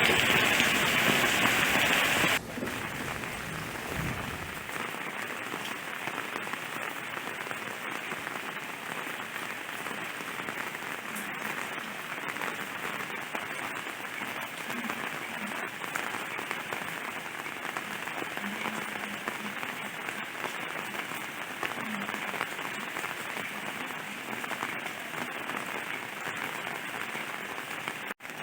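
Rain falling steadily. A heavy downpour for the first couple of seconds cuts suddenly to lighter, quieter rain, and a low rumble fades out within the first five seconds.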